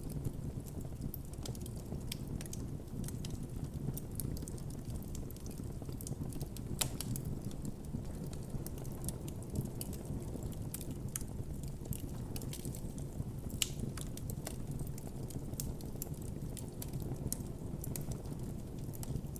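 Wood campfire burning with a steady low rumble of flame and irregular sharp crackles and pops.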